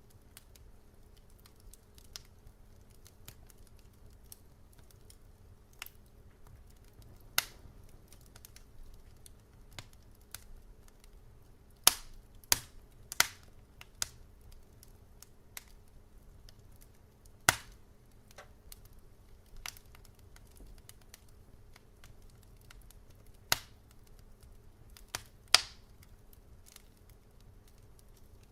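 Wood fire crackling in a fireplace: sharp, scattered pops and snaps a few seconds apart, with a quick run of three about halfway through and two more close together near the end, over a faint steady low rumble.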